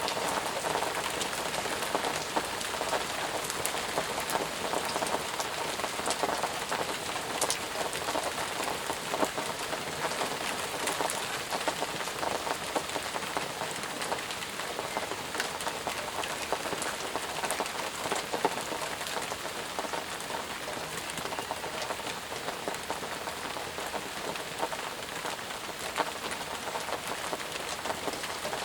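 Steady rain falling, with many small drops pattering on surfaces.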